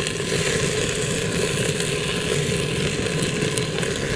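Freshly washed rice sizzling steadily in hot oil and garlic in a pot as it is toasted.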